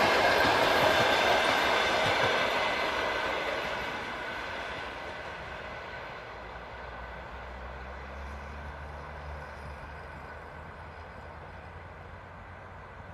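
Passenger train coaches rolling away on the rails after the last coach passes, the wheel-on-rail noise loud at first and fading steadily as the train recedes.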